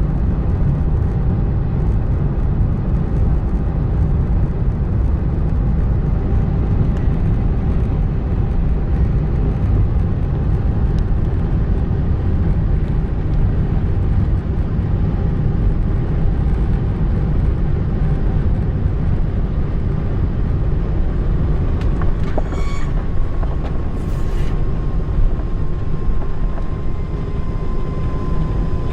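Steady, loud low rumble of engine and airflow noise inside the cabin of an Airbus A380 as it comes in to land. About three-quarters of the way through, a couple of brief faint rattles are heard, and a faint steady whine sets in.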